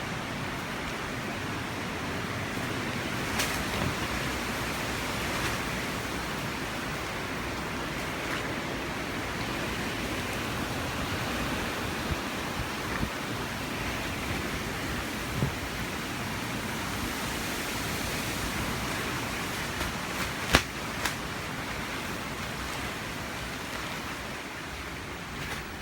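Steady rushing noise of hurricane wind and rain, broken by a few sharp knocks, the loudest about twenty seconds in.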